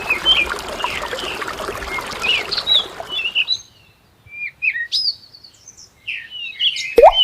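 Small songbirds chirping and twittering in quick short calls, over a steady hiss that cuts off suddenly about halfway through, leaving the birds alone. There is a short sharp whoosh near the end.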